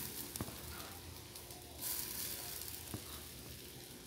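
Zucchini-and-egg omelette batter sizzling in hot oil in a frying pan as it is spooned in. The sizzle swells a little before two seconds in, and there are two light clicks, one near the start and one about three seconds in.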